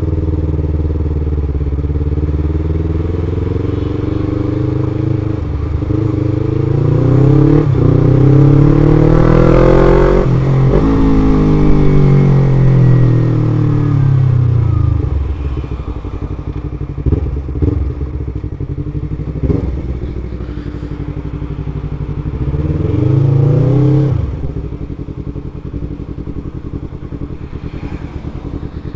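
Motorcycle engine running while riding, accelerating to a peak about a third of the way in and then easing off, with a shorter burst of acceleration near the end before it settles back to a low steady run.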